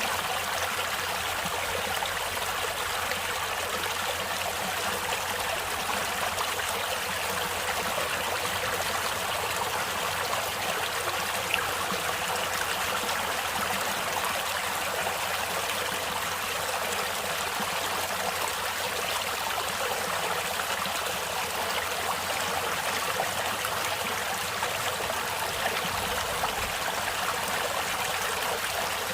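Stream water flowing and trickling in a steady, even rush.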